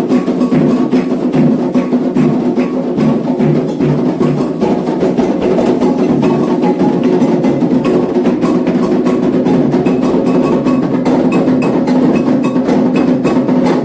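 Candomblé ritual percussion: atabaque hand drums playing a fast, steady, driving rhythm for Ogum, with a metal agogô bell striking over them.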